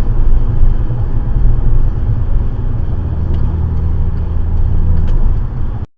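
Loud, low rumble of a car on the move, heard from inside the vehicle; it cuts off abruptly near the end.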